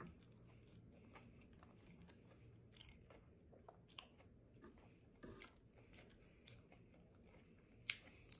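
Faint chewing of a mouthful of buffalo catfish sandwich, with scattered soft mouth clicks and smacks. A sharper click comes near the end.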